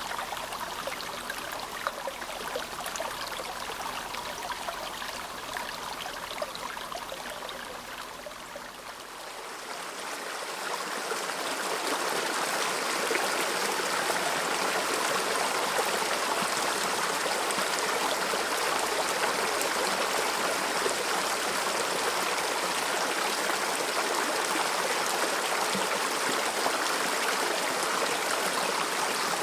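Mountain river running over stones in a steady rush. About a third of the way in, it swells into a louder, fuller rush of water.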